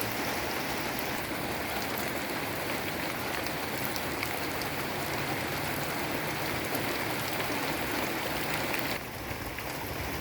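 Heavy tropical downpour falling steadily, a dense even hiss of rain. It drops abruptly in level about nine seconds in.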